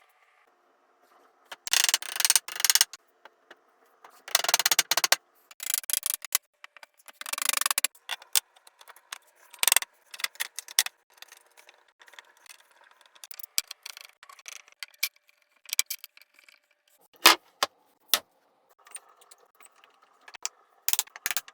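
Workshop handling noises: a few short bursts of scraping in the first eight seconds, then scattered clicks and light metallic clinks.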